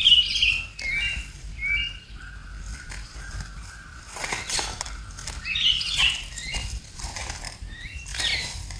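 Animal squeaks and chirps: many short, high calls that rise and fall, with a thin held whistle-like tone through the middle and a few clicks.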